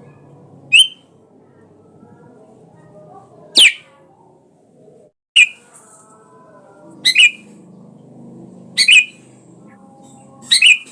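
Sooty-headed bulbul (kutilang) giving about six short, sharp calls spaced a second and a half to two seconds apart, each a quick falling note and some given as a quick double.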